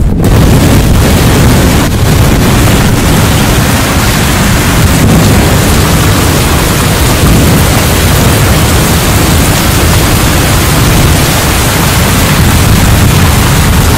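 Loud, steady storm noise: strong wind and rain, with wind buffeting the microphone.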